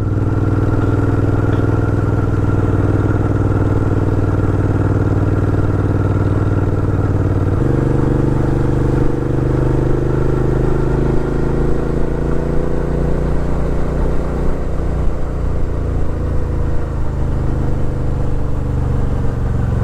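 Suzuki V-Strom 650 XT's 645 cc V-twin engine running steadily while riding uphill. Its note changes abruptly about seven and a half seconds in, then rises and falls unevenly.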